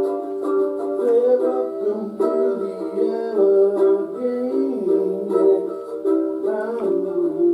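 Eight-string Spider Monkey instrument playing a blues tune: plucked notes and chords ringing on, with a few notes bent in pitch.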